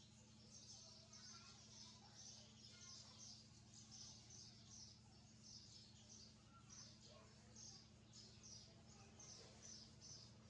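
Faint, repeated high chirping of young birds about 26 days old, calling steadily over a constant low electrical hum.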